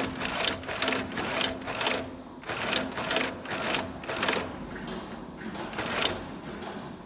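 Industrial sewing machine stitching in short runs, starting and stopping several times, with a pause of about a second before a last brief run near the end.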